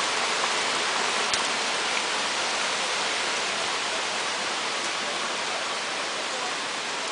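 Steady tropical-storm rain falling, a constant even hiss.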